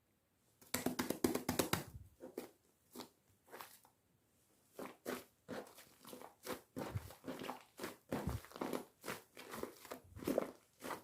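Slime being kneaded by hand with shaving foam mixed in: irregular wet squishes and crackling pops, several a second, starting about a second in.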